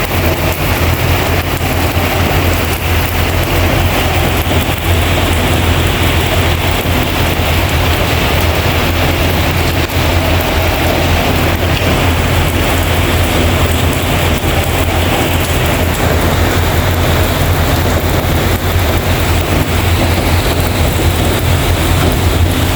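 Heavy rain falling in a steady, dense hiss, with a constant low rumble underneath.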